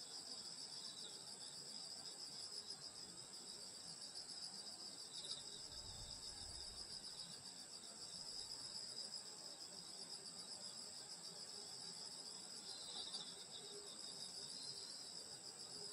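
A chorus of crickets and other grass insects chirping steadily in a high, continuous trill, with a brief faint low rumble about six seconds in.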